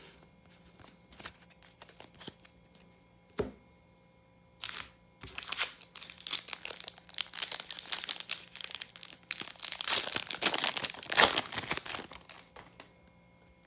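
Foil booster pack wrapper being torn open and crinkled. There are a few light clicks in the first seconds, then from about five seconds in a long stretch of dense crackling that stops near the end.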